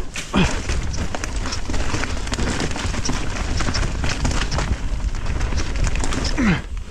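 Mountain bike rolling over rough trail: a dense clatter of tyre crunch and small knocks from the bike, over a heavy low rumble of wind buffeting the microphone. Two short falling squeaks come through, one just after the start and one near the end.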